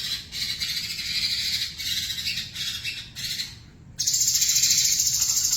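White-rumped shama (murai batu) singing a fast, varied song full of chirps. After a brief pause about two-thirds through, it breaks into a loud, very rapid buzzing trill.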